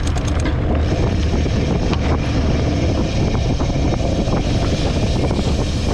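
Steady rumbling noise from a mountain bike on a dirt trail: wind buffeting the microphone of a bike-mounted camera, mixed with tyre and drivetrain noise. A few sharp clicks come in the first second.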